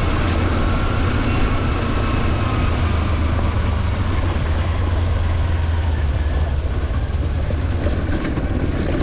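Kawasaki Versys-X 300 parallel-twin engine running steadily under wind noise, with a faint gear whine that falls in pitch early on. Near the end comes a rapid series of ticks from the ABS cutting in under braking.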